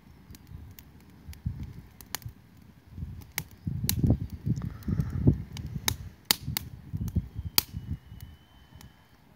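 Wood fire in a fire pit crackling and popping: irregular sharp snaps, several a second, over an uneven low rumble that swells through the middle. A faint thin high tone comes in near the end.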